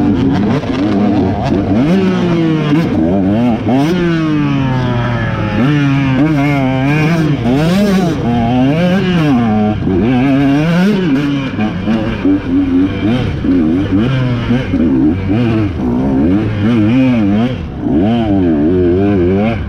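Off-road racing motorcycle engines revving hard and easing off again and again as they shift through the gears. At times more than one bike is heard at once, their pitches crossing.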